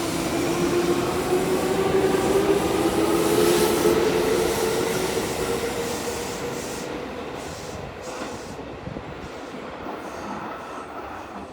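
Seibu 10000 series electric train pulling away under its Hitachi IGBT-VVVF inverter. The traction motor whine climbs steadily in pitch as it accelerates, then fades as the train moves off, with faint wheel clicks on the rail joints near the end.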